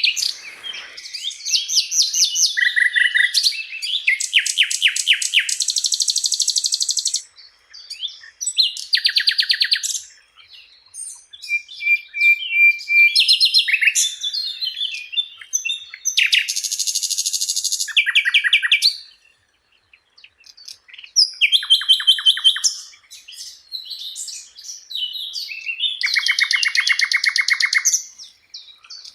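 Sikatan londo flycatcher singing a varied song of fast trills, chatters and short whistled notes, in phrases a second or two long with brief pauses between them.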